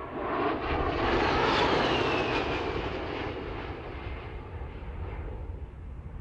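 A-10 Thunderbolt II's turbofan jet engines as the aircraft flies past: the noise swells for about two seconds, a whine drops in pitch as it passes, then the sound fades away.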